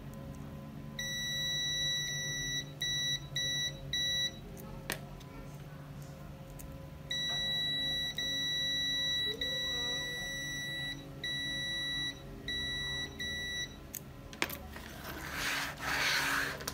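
Electronic beeper sounding one steady high tone in irregular on-off stretches, some nearly two seconds long and some a fraction of a second, over a low steady hum. A rustling noise comes near the end.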